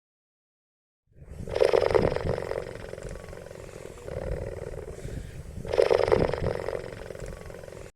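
A large animal roaring: after a second of silence come two long, rough, pulsing roars, the loudest near the start and again about six seconds in.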